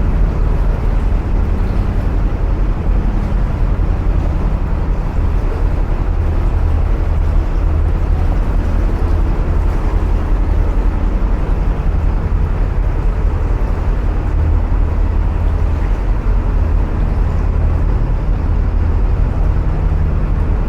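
Narrowboat diesel engine running steadily, a deep continuous rumble echoing inside a long brick canal tunnel.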